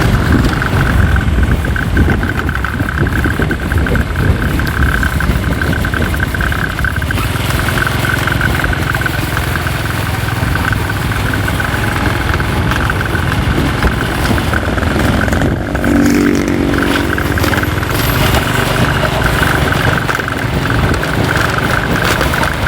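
Motorcycle engine running steadily while being ridden, a constant drone with a low rumble. About two-thirds of the way through, a brief pitched sound joins it.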